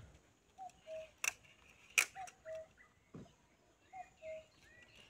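A bird calls repeatedly in two notes, a short higher note followed by a longer, lower held one, about every second and a half. Two sharp clicks come about one and two seconds in, louder than the calls.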